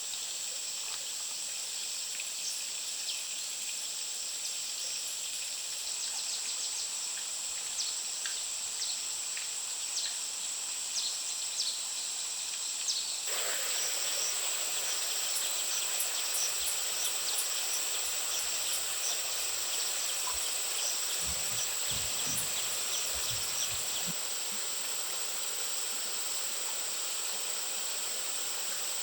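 Rainforest ambience dominated by a steady, high-pitched insect drone, with scattered small clicks and ticks. The background hiss grows about midway, and a few soft low thumps come about three-quarters of the way in.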